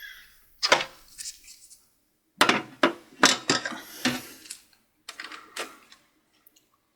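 A hard drive being handled and fitted into a desktop tower's metal drive bay: a string of irregular clacks and knocks of metal and hard plastic.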